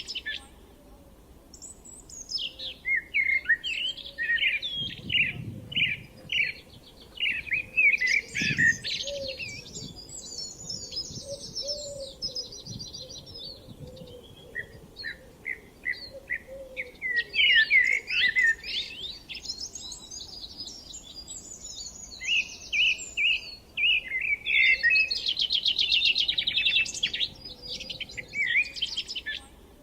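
Songbirds singing in overlapping phrases of chirps, trills and rapid runs of repeated notes, with short lulls between bursts.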